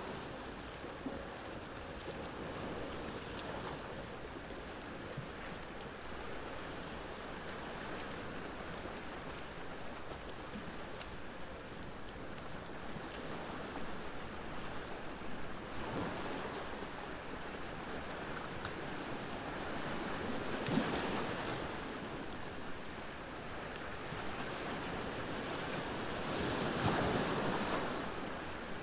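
Ocean waves washing onto the shore in a steady rush, swelling louder about two-thirds of the way through and again near the end, with faint crackles from a wood bonfire.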